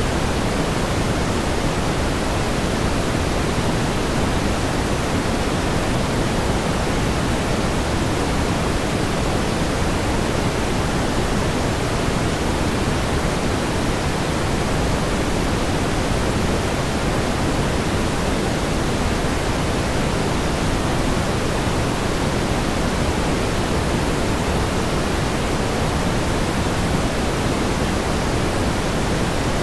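Steady pink noise: an even, unchanging hiss with more weight in the low end than the high, like a soft rushing of water.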